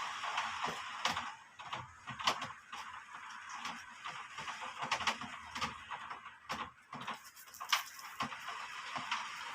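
Rain falling, a steady hiss that is heavier for the first second or so, with many irregular sharp taps and drips of drops striking a hard surface.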